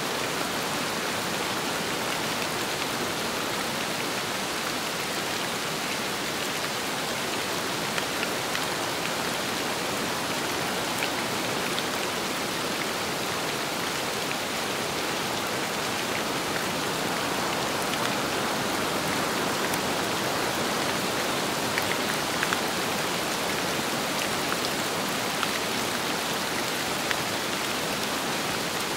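Steady rain falling on a surface, a dense even hiss with scattered sharper drop ticks.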